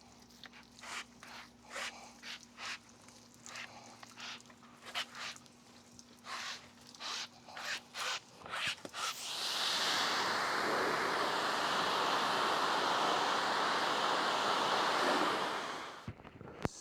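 Kranzle electric pressure washer spraying water, a loud steady hiss for about six seconds that starts about nine seconds in and cuts off abruptly near the end. Before it come scattered short knocks and rubbing sounds.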